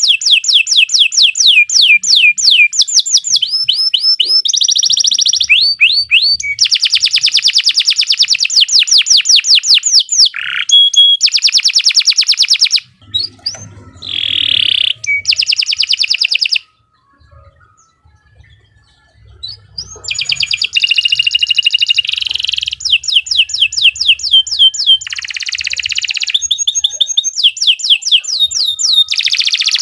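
Domestic canary singing a long song of rapid trills, each phrase a fast run of repeated notes that switches to a new note type every second or two. The song breaks off for a few seconds just past the middle, then starts again.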